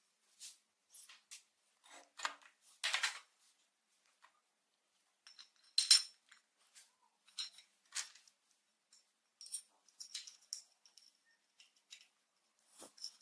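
Light metallic clinks and taps of small metal parts being handled, irregular and spread out, with one sharper ringing clink about six seconds in.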